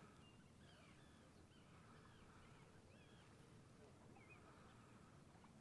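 Faint bird calls over near silence: short chirps repeating every half second to a second.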